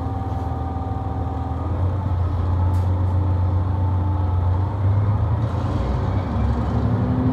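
Local train pulling away from a station, heard from inside the carriage: a steady low running hum that grows a little louder about two seconds in, with faint steady tones above it.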